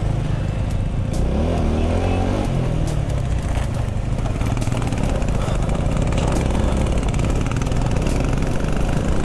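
TVS Apache 160 motorcycle's single-cylinder engine running steadily under way. Its pitch rises and falls briefly about a second and a half in, and there are scattered sharp clicks.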